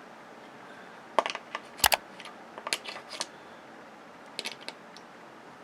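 Scattered sharp metallic clicks and snaps as a small copper coil is worked off a circuit board, in small clusters, the loudest with a dull knock just under two seconds in.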